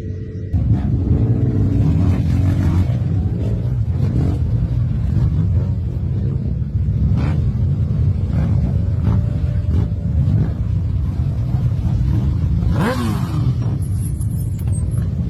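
Motorcycle engines running, with a heavy low rumble and one quick rev rising and falling about thirteen seconds in.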